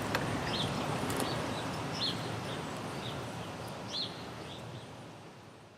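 A small bird chirping, short high chirps repeated roughly every half second, over steady outdoor background noise that fades out near the end.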